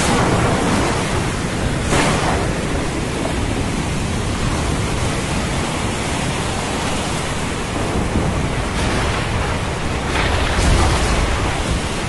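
Steady hiss of rain and ocean surf in a thunderstorm. It swells briefly about two seconds in, and again near the end, with a deeper low rumble.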